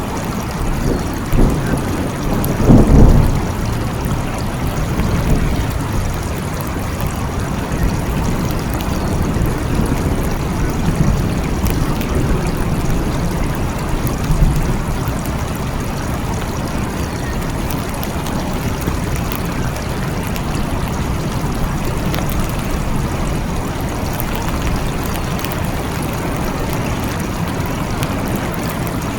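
Steady rain with rolling thunder: a deep rumble swells to its loudest about three seconds in, and fainter rumbles follow around eleven and fourteen seconds in.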